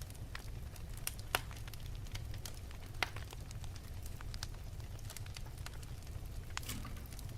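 Wood fire burning in an open fireplace: a low steady rumble of flames with irregular sharp crackles and pops, the loudest about a second and a half in and again at three seconds, and a short flurry of crackles near the end.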